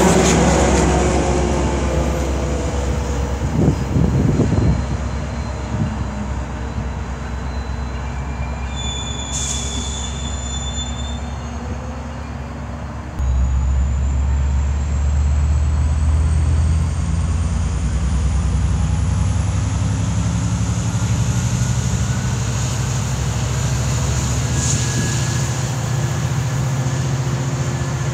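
Diesel commuter train passing close and pulling away down the track, its engine running with a steady low rumble. A few clanks come a few seconds in, a brief high wheel squeal near ten seconds, and the low rumble swells suddenly about halfway through.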